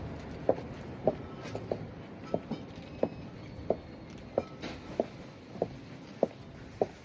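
Heeled boots clicking on the floor at a steady walking pace, a little under two steps a second.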